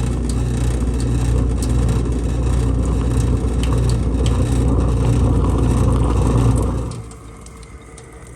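Kitchen garbage disposal running with a cleaning pod in it and a thin stream of water: a steady motor hum with a rough grinding rattle, which cuts off about seven seconds in and leaves only faint running water.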